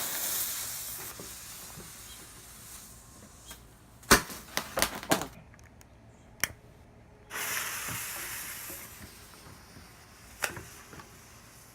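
A homemade pen firecracker hissing as its packed charge burns, with a quick string of sharp pops about four seconds in, another pop, then a second burst of hissing and one more pop near the end. The pops come from crackling composition taken from an artillery shell, packed in with stars.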